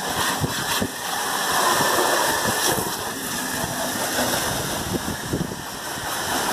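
Chiaperiri 14-litre pressure washer running on a tap hose, its water jet spraying and splashing steadily against a car.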